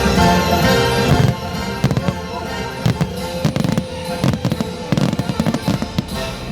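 Fireworks going off in quick bangs and crackles, several a second, starting about a second in, over loud orchestral show music.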